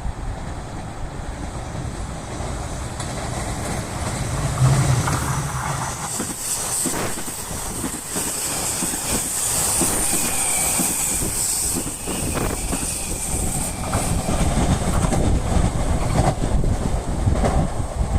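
JR Shikoku 8600 series electric train running past, its wheels clacking over the rail joints. It grows louder toward the end, with the clacks coming thicker in the last few seconds.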